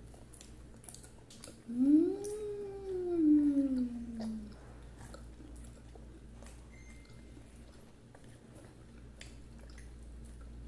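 A single drawn-out vocal call, about three seconds long, that rises and then slides down in pitch, with a few faint clicks around it.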